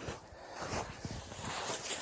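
Irregular rustling and crunching, a rapid run of short, scraping strokes.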